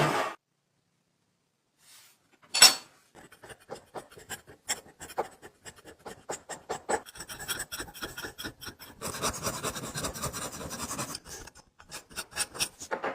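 Hand filing and rubbing on a metal part: after a single sharp knock, many short, uneven rasping strokes, then a few seconds of steadier continuous rubbing, then short strokes again near the end.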